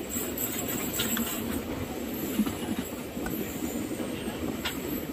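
Passenger train running on the track: a steady rumble with a few sharp clicks.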